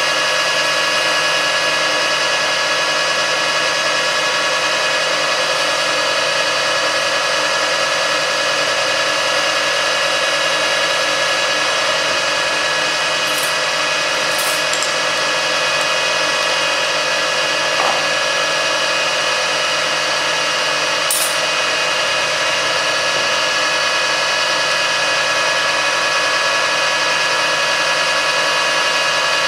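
Metalworking lathe running steadily while turning a metal bar down to size, with a few faint high clicks along the way.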